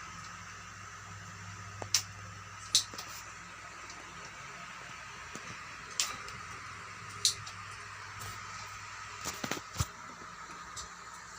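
A bird giving short, sharp high chirps, about five of them a second or more apart, over a steady hum.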